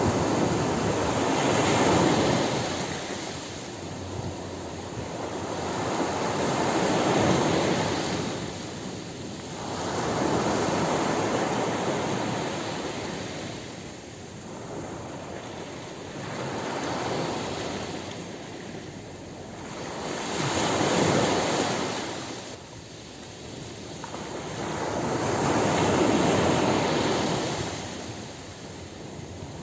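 Ocean surf breaking and washing up a beach in slow surges. Each wave swells and then fades over several seconds, about six times in all.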